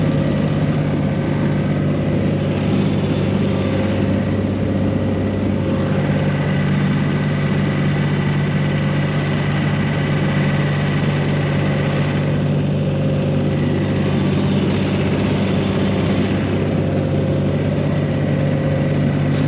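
1985 John Deere 1050 compact tractor's three-cylinder diesel engine running steadily as the tractor crawls forward through deep snow, the engine still warming up after a cold start.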